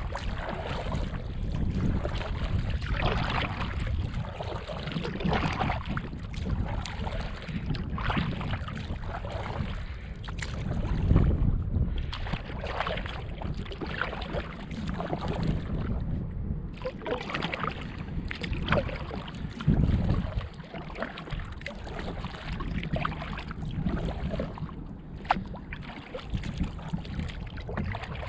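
Strong wind buffeting the microphone over water splashing and sloshing around a canoe being paddled through choppy water, with heavier gusts about eleven and twenty seconds in.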